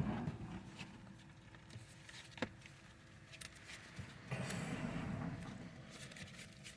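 Quiet car cabin with small handling noises: a sharp click right at the start and another about two and a half seconds in, with a soft steady whoosh for about two seconds near the end.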